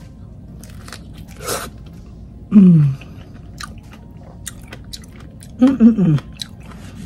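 A person biting into a fresh donut peach and chewing it, with faint wet clicks of the mouth. Two short hums fall in pitch, one about two and a half seconds in and a louder one near the end.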